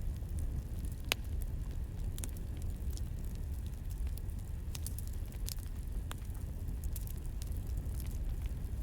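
Campfire crackling: a steady low rumble of burning wood with irregular sharp pops and snaps, one louder snap about a second in.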